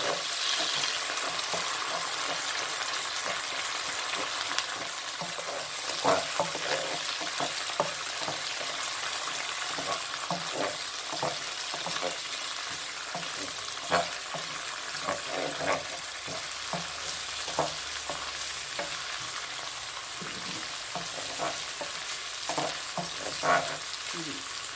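Garlic-ginger and onion paste sizzling steadily in hot oil in a pan as it is fried down. A wooden spatula stirs and scrapes it, with scattered knocks against the pan, a few of them sharper.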